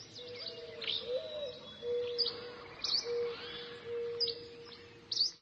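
Birds chirping: short high calls sweeping downward about once a second, over a lower held whistling note that breaks off and resumes several times.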